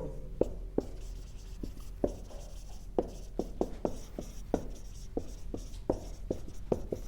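Writing on a classroom board: a string of short, sharp taps at uneven intervals, about two or three a second, as letters are written.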